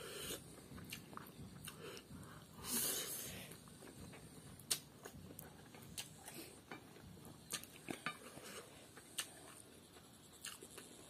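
Close-up eating sounds: a man chewing spicy instant noodles, with scattered sharp little clicks and one longer, louder rushing sound about three seconds in.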